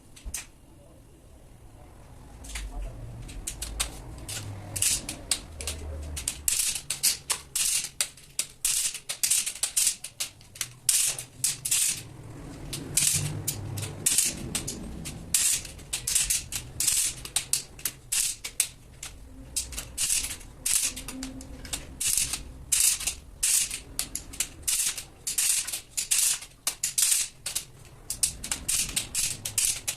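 Rapid, irregular, gritty scraping strokes of hand work on metal, several a second, starting about two seconds in.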